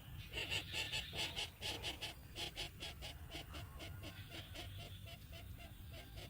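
Bird chick calling in a rapid series of short, repeated calls, about four or five a second. The calls are loudest in the first couple of seconds and a little softer after.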